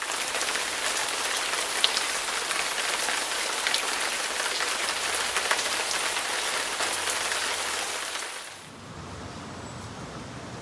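Heavy rain falling, a steady hiss with scattered sharp drop ticks. About eight and a half seconds in it cuts to a quieter, lower rush of wind outdoors.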